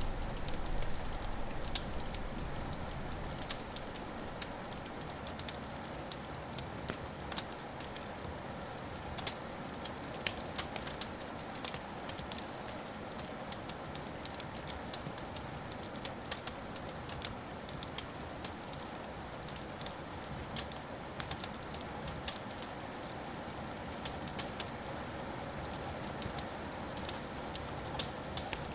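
Wood fire crackling, with frequent sharp pops over a steady hiss. A low rumble of thunder fades away over the first few seconds.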